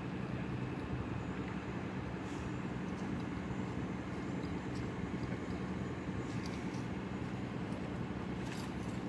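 A steady low mechanical drone with an even pitch, with a few faint clicks.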